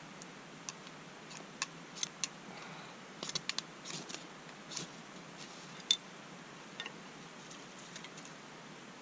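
Scattered light clicks and taps at irregular intervals over a steady soft hiss, the sharpest about six seconds in.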